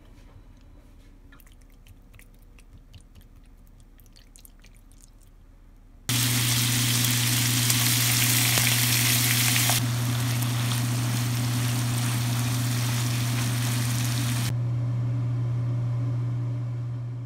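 Faint clicks of a spoon stirring marinated squid, then, about six seconds in, thin-sliced pork belly and seasoned squid start sizzling loudly in a hot frying pan, with a steady low hum under the sizzle. The sizzle grows duller about a second before it fades out near the end.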